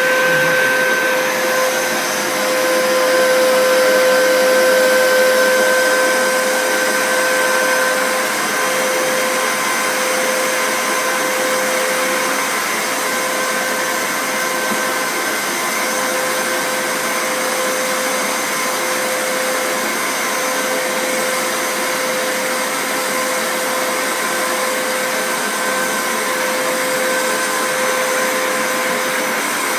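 Vacuum cleaner running steadily, its motor holding one whining pitch over a constant rush of air.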